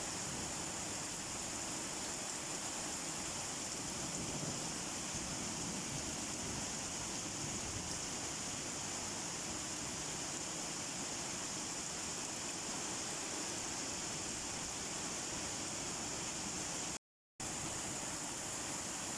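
Steady, even rain noise. It cuts out completely for a split second near the end.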